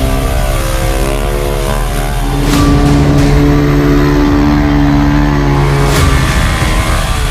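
Motor vehicle engine revving hard and held at high revs, its pitch wavering slightly, with two sharp cracks about two and a half and six seconds in.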